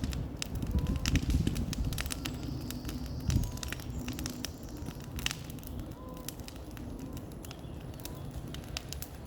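Bonfire crackling, with irregular sharp pops over a steady low rumble of the flames.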